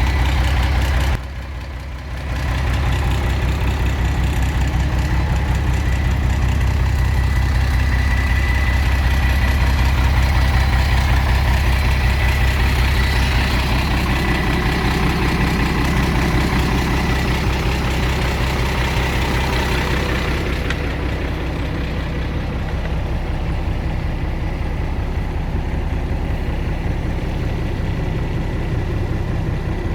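Iveco Eurotech 440E38 truck's diesel engine idling steadily. The sound drops briefly about a second in, and the higher hiss falls away about two-thirds of the way through while the low engine note carries on.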